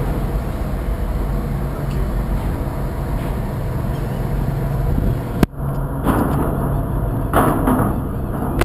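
Steady low engine drone of a boat under way. About five seconds in, a sharp click breaks it and a different steady engine drone takes over, with two short rushing swells.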